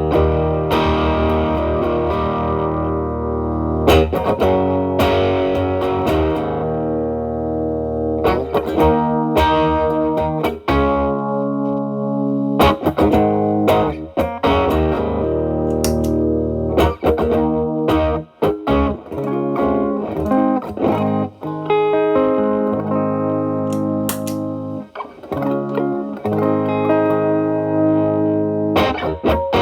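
Telecaster played through an E.W.S. Brute Drive BD-1 distortion pedal into a Marshall Valvestate amp's drive channel: overdriven electric guitar phrases of chords and single notes, with short gaps between them. The pedal's boost is switched on about halfway through.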